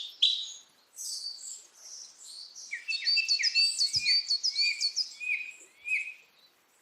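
Small bird chirping: short, high, downward-sliding notes, scattered at first, then a quick run of about five a second in the middle. A faint low thump comes partway through.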